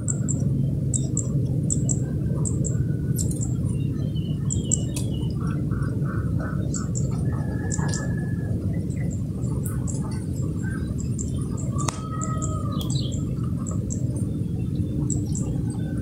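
Many birds chirping and calling: short high chirps repeating throughout, with a quick series of lower calls about six seconds in, over a steady low rumble.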